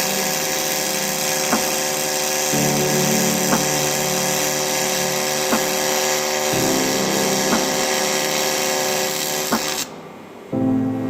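TIG welding arc on aluminium: a steady, loud hissing buzz that cuts out near the end and strikes again about half a second later. Background music with soft beats plays underneath.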